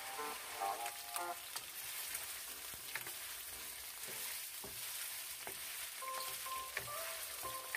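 Chicken pieces sizzling as they fry in a nonstick pan, with a spatula stirring them and clicking against the pan now and then.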